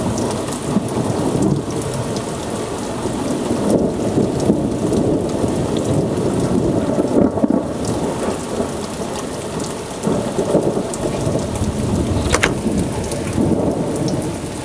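Heavy thunderstorm downpour pouring steadily, with a low rumble of thunder underneath and scattered sharp drops tapping close by.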